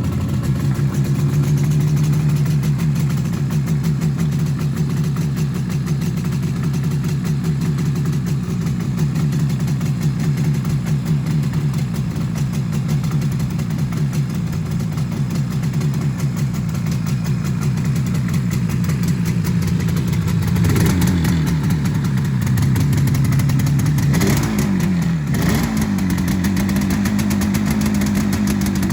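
1979 Yamaha RD400F Daytona Special's air-cooled two-stroke parallel twin running on choke just after a cold start, idling steadily. After about twenty seconds the engine speed briefly rises and dips a couple of times, then holds at a slightly faster idle.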